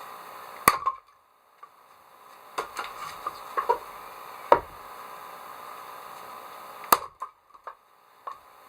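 Wood being chopped: three hard blows a few seconds apart, with lighter knocks and clatter between them.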